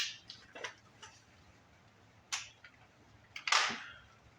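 Hand tools working a steering-stabilizer fastener: a few separate metallic clicks and taps of a wrench on the nut, with a louder short rasp about three and a half seconds in.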